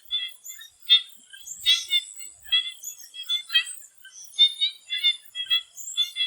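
Swamp frogs calling in short, repeated calls, about two a second, over a steady high-pitched insect drone.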